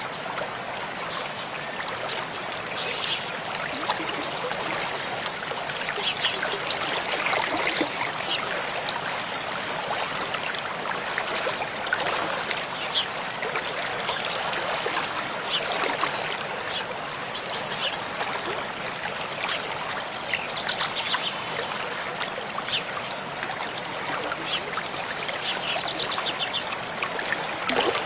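Mountain stream flowing steadily, with birds giving short high chirps now and then, most busily about two-thirds of the way through and again near the end.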